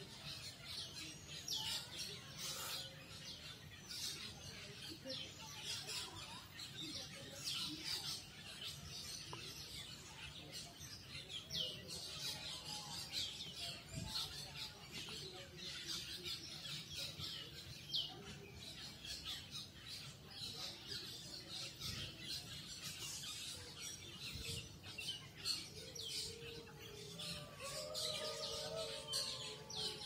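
A flock of black birds in the tree canopy calling continuously, with many short, high chirps overlapping.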